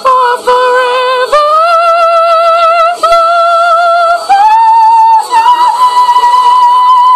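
A high voice holds long wordless notes with vibrato, unaccompanied. It steps up in pitch about three times and ends on a steady high held note.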